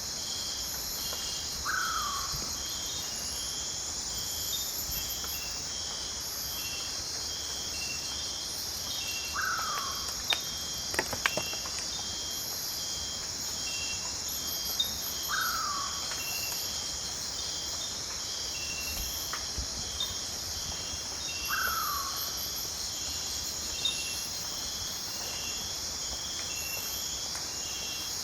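Night-time rainforest insect chorus: a steady high buzz with layers of rapid, evenly pulsed chirping. A short falling call repeats about every six seconds, and a few sharp clicks come about ten seconds in.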